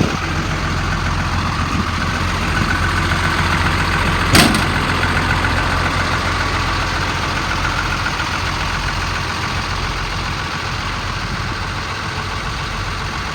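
The truck's 5.9-litre Cummins diesel idling steadily, with one loud bang about four seconds in as the hood is shut.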